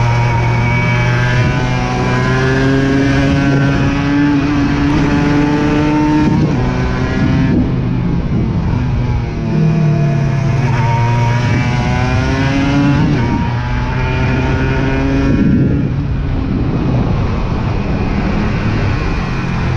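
Aprilia RS 125 motorcycle engine accelerating hard through the gears. Its pitch climbs and drops back at each upshift, about four times.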